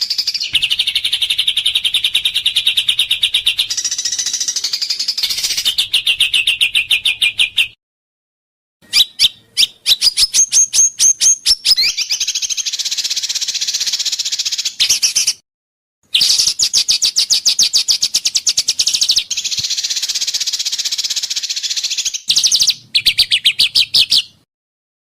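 Songbird song from an edited masteran recording: fast, high trills of rapidly repeated chattering notes ('tembakan'), with a brief rising-and-falling whistle in the middle. The song breaks off abruptly into short silences three times.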